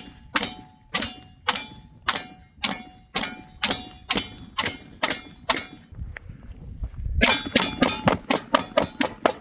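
ZRO FKS-9 9mm pistol being fired in steady strings: about two shots a second for some six seconds, each followed by a short metallic ring, then a brief pause and a faster string of about four shots a second.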